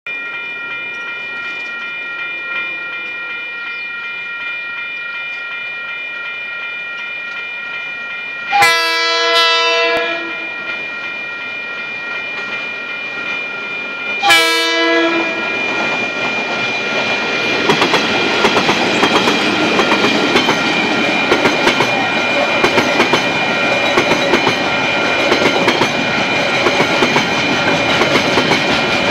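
Level crossing alarm bell ringing steadily while a KiwiRail diesel freight train approaches. The locomotive sounds its horn twice: a blast of about a second and a half around eight and a half seconds in, and a shorter one around fourteen seconds in. From about sixteen seconds in the train grows louder as the container wagons roll across the crossing with a regular clickety-clack of wheels over rail joints.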